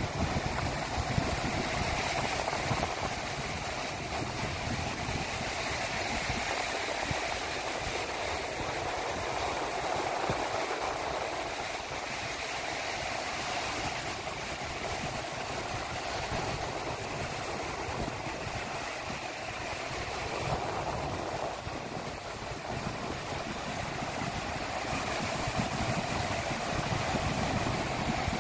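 Sea waves washing on the shore in a steady wash that swells and eases every few seconds, with wind rumbling on the microphone.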